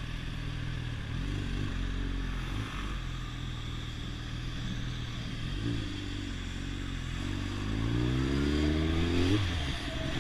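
Motorcycle engine running, blipping briefly twice, then revving up steadily for about two seconds near the end before the revs drop off.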